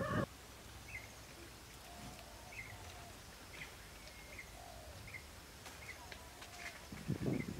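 A small bird repeating short high chirps about once a second, with a few fainter, lower drawn-out calls in between. Near the end a burst of rustling and handling noise comes in, louder than the chirps.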